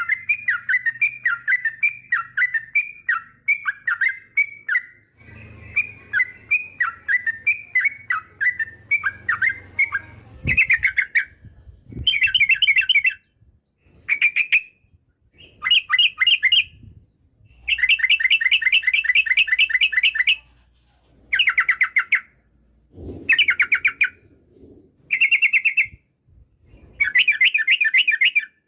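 Yellow-vented bulbul (trucukan) singing: a run of short, quickly repeated down-slurred whistled notes, a brief pause about five seconds in, then from about ten seconds in, short bursts of rapid trilled chatter separated by gaps.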